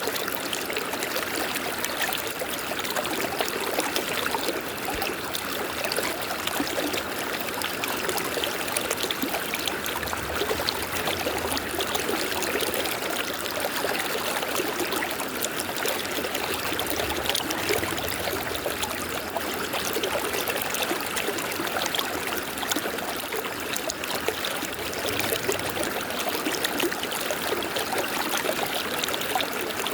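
A river flowing steadily: a continuous rush of water over stones with fine babbling and trickling.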